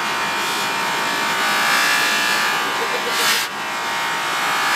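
Electric polishing buffer running steadily, its rouge-loaded buffing wheel working a small metal bird figure. About three seconds in there is a brief rushing swell, then the level drops for a moment.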